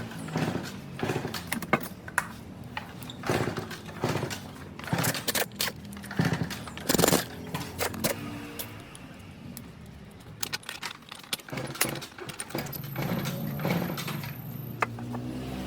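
Metal tools and parts being handled, with a string of irregular sharp clinks and knocks, the loudest about halfway through. A faint high whine runs for about two seconds near the end.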